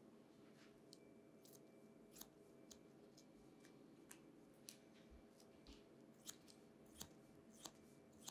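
Faint, irregular snips of barber's scissors cutting hair, about fifteen short sharp clicks at uneven spacing over a low steady room hum.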